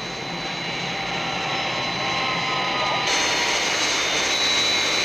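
Jet airliner engines in flight: a steady rushing noise that grows gradually louder, switching abruptly to a brighter, hissier sound about three seconds in.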